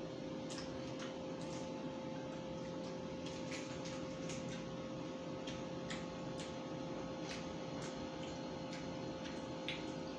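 Mouth sounds of a man eating roast chicken with his hands: irregular soft clicks from chewing and lip-smacking, every half second or so, over a steady background hum.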